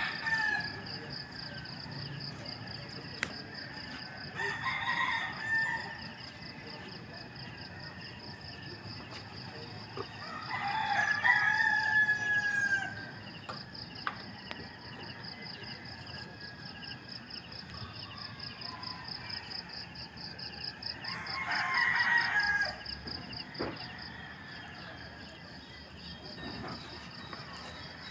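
Rooster crowing three times, the second crow the loudest and longest and trailing off in a falling note. A steady, high, rapidly pulsing buzz runs underneath.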